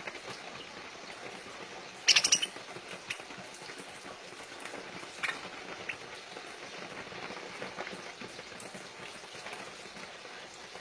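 Pet parakeets with a loud, short squawk about two seconds in and a few brief chirps later, over a steady crackly patter.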